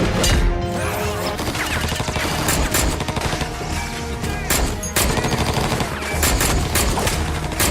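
Heavy gunfire, many shots in rapid succession throughout, with music underneath.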